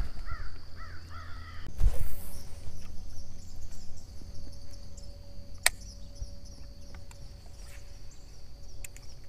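Birds calling outdoors, a few short rising-and-falling calls in the first couple of seconds, over a steady low hum, with a couple of sharp clicks and faint scattered ticks later.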